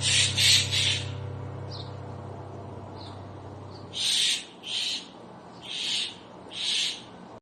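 A small bird chirping in short, repeated calls: three quick ones at the start, then four more spaced under a second apart in the second half. A low background hum of music fades out about halfway through.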